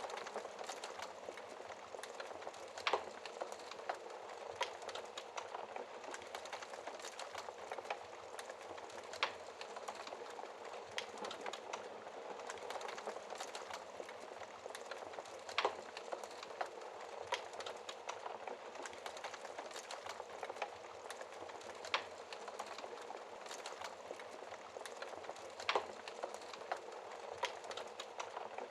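Logs burning in a fireplace: a steady hiss of flame with frequent small crackles and a sharper pop every few seconds.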